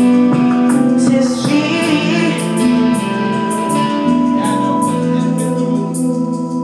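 Live electronic band playing an original song: sustained keyboard chords over a steady beat with regular high cymbal strokes about twice a second, and a female voice singing over it.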